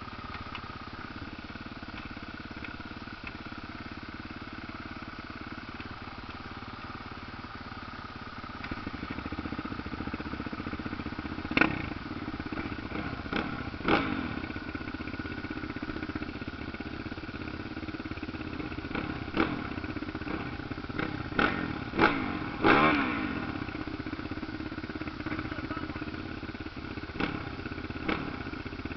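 Motocross dirt bikes running, with a steady engine drone that gets louder about a third of the way in. Short, loud bursts of engine sound come as bikes rev hard or pass close: a few around the middle, a quick cluster soon after, and one more near the end.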